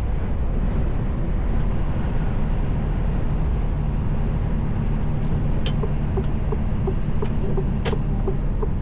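Steady engine and road drone inside the cab of a Mercedes Actros L truck on the move. A light, regular ticking starts a little past halfway, at about two ticks a second, with a couple of sharp clicks.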